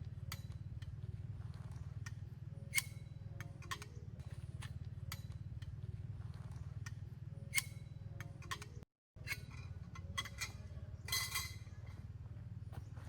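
A few sharp clinks, like cookware or utensils knocked together, once near three seconds, again near seven and a half, then a quick cluster about eleven seconds in, over a steady low hum. The sound cuts out completely for a moment about nine seconds in.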